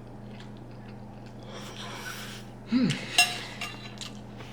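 Cutlery clinking against a dish while eating, with one sharp ringing clink about three seconds in.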